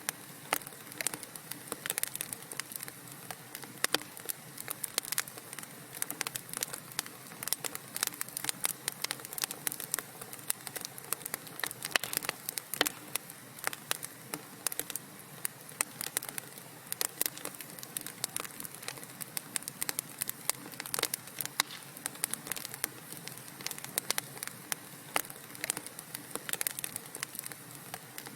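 Wood fire crackling in a fireplace: dense, irregular snaps and pops, several a second, over a faint steady hiss.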